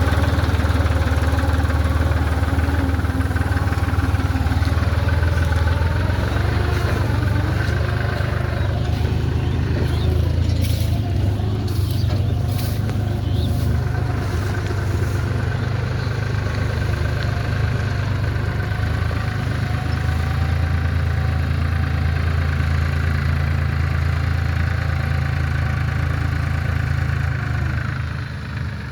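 Tractor engine running steadily under load as the tractor works stuck in mud, its pitch wavering as the engine speed shifts. A few faint sharp clicks come about halfway through.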